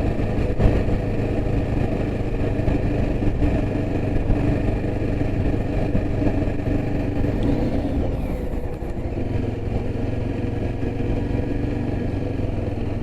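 Yezdi Adventure motorcycle's single-cylinder engine running steadily while riding, with a brief dip in level about nine seconds in.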